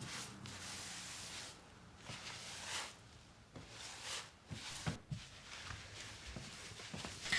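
Soft rustling swishes of things being handled, with a few light knocks about five seconds in.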